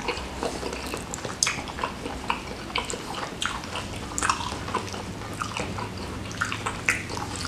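Close-up wet chewing and lip-smacking of a mouthful of soft squid head in spicy sauce: many quick smacks and clicks throughout.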